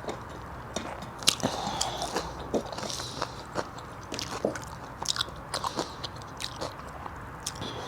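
Close-miked chewing of a person eating, with many small wet mouth clicks and smacks.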